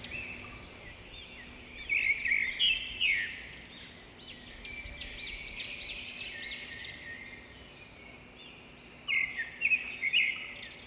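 Birds chirping: many quick, high, repeated chirps, loudest in a burst about two seconds in and another about nine seconds in.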